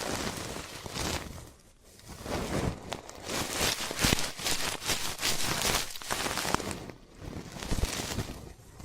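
Ear-cleaning sounds: an ear pick scratching and rubbing close up against the microphone's ear, a dense crackly rustling. It drops away briefly about two seconds in and again around seven seconds.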